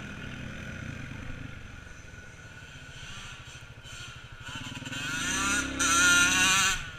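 Small off-road vehicle engine running steadily, then revving higher and getting much louder from about four and a half seconds in, dropping off sharply just before the end.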